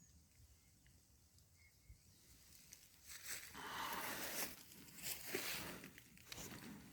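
Faint at first, then from about three seconds in a run of irregular rustling and scuffing noises.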